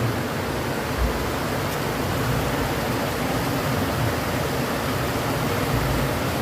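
Steady rush of rain-swollen river water, with two brief low rumbles of wind on the microphone, about a second in and near the end.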